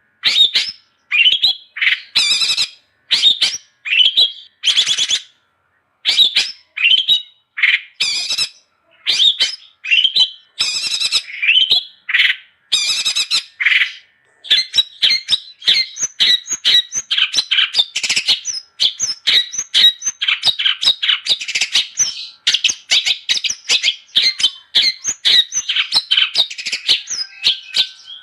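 Long-tailed shrike (cendet) in full, vigorous song. First come separate harsh squawking calls and short whistled notes with gaps between them. From about halfway a fast, unbroken run of chattering notes takes over.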